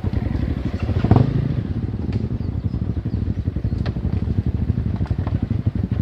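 Motorcycle engine running at low revs as the bike rolls slowly downhill on a trail, with a few knocks and a clatter, the loudest about a second in.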